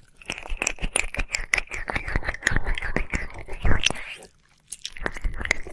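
Close-mic ASMR ear-licking sounds: wet tongue and mouth clicks and smacks in a fast, dense run. They pause briefly about four seconds in, then start again.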